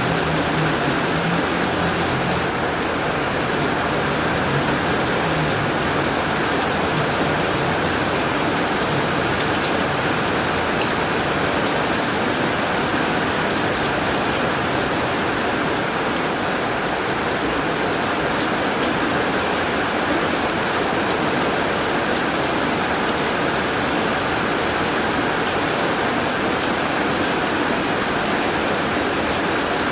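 Heavy rain pouring steadily onto a tin roof, a dense even patter. A low rumble sits under it for the first several seconds and then fades.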